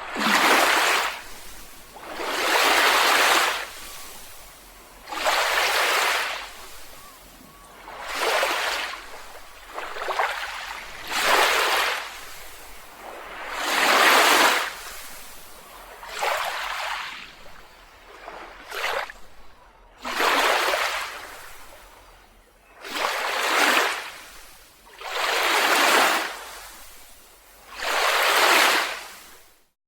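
Sea waves washing in on a beach, each one swelling and fading, about every two to three seconds.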